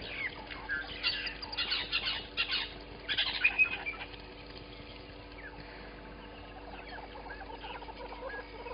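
Wild birds calling: a burst of chattering, chirping calls, loudest about three seconds in, that dies down after about four seconds.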